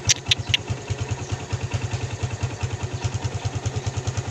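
Motorcycle engine idling, a steady even pulse of about nine beats a second. Three short sharp clicks come in the first half second.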